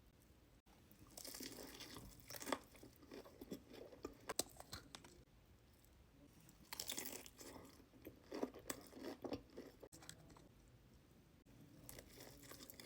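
Close-up crunching and chewing of crispy fried chicken, in two stretches of crisp bites and chews.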